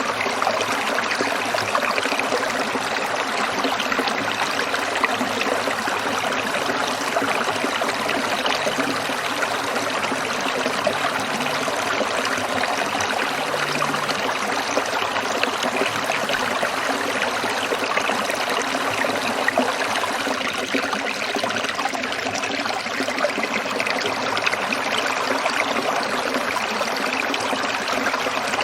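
A small stream trickling and babbling over rocks in a steady, unbroken rush of water.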